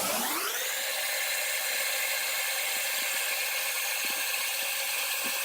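Kitchen tap running water steadily into a cooking pot, the pot filling for boiling pasta; the pitch of the rushing sound glides up in the first second, then holds steady.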